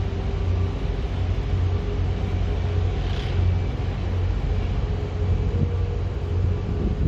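Steady low engine rumble with a faint steady hum over it, and a brief hiss about three seconds in.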